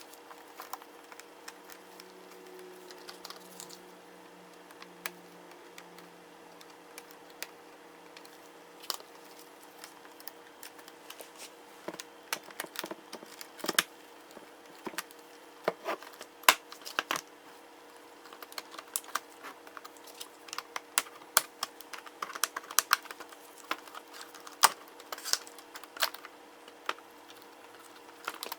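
Laptop parts and small tools being handled during disassembly: irregular sharp clicks and taps, sparse at first and coming thick and fast from about halfway through.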